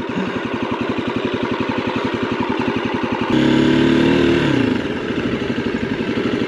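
Husqvarna 701's single-cylinder engine running at low speed with an even pulsing beat; a little past halfway it revs up louder for just over a second, then eases back off.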